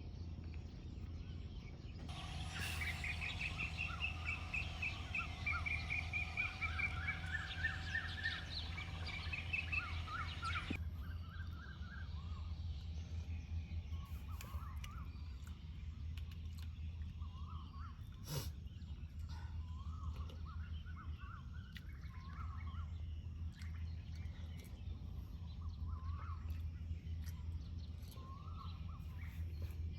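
Wild birds singing: a dense stretch of rapid, repeated trilling notes for several seconds that stops abruptly, then sparse short chirps, over a steady low rumble.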